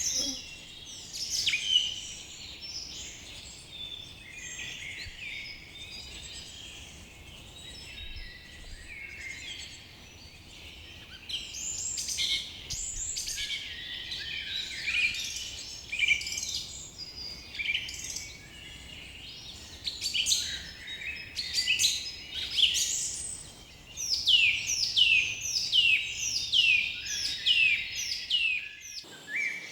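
A forest bird chorus: several birds chirping and singing over one another. Over the last few seconds one bird repeats a quick falling note about two times a second.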